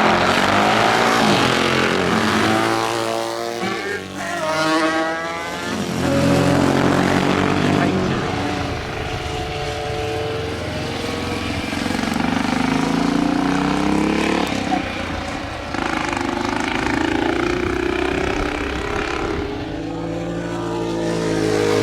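Racing motorcycles running on the circuit, several engines passing one after another with their notes rising and falling as they accelerate and shift.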